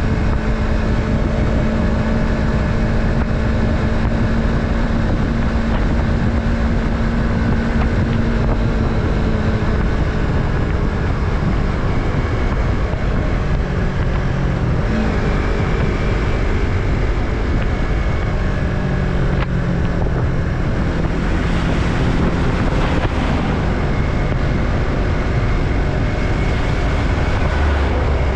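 Yamaha MT-03's 321 cc parallel-twin engine running under way, its note shifting in pitch a few times as road speed changes, with wind noise on the microphone.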